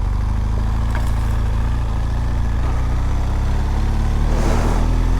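BMW R1200GS boxer-twin engine running at low speed, a steady low drone that rises a little in pitch toward the end, with a brief hiss about four seconds in.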